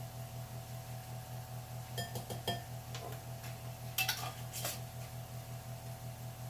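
A measuring spoon and dishes clinking in the kitchen: a couple of light ringing clinks about two seconds in, then a quick cluster about four seconds in, over a steady low hum.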